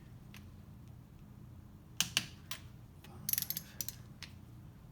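Torque wrench ratcheting and clicking as a case bolt is tightened to 30 foot-pounds: a few clicks about two seconds in, then a quick run of ratchet clicks a little later.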